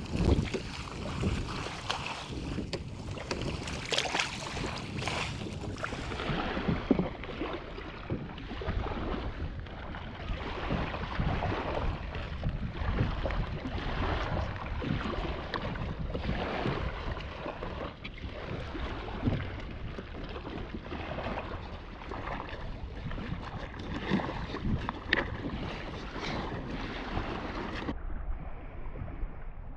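Wind buffeting the microphone over water lapping against a kayak, with frequent short irregular splashes and knocks. The sound drops abruptly to a duller, quieter one near the end.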